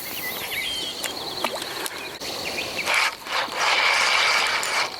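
Fishing reel being cranked in, a mechanical whirring and clicking that grows louder over the last two seconds.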